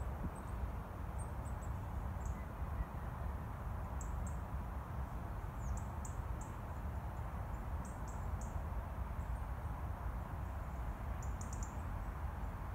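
Small birds giving short, thin, very high-pitched calls every second or so, over a steady low background rumble.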